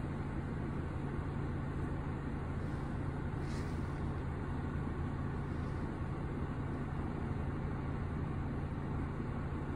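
Car engine idling: a steady low hum, heard from inside the car.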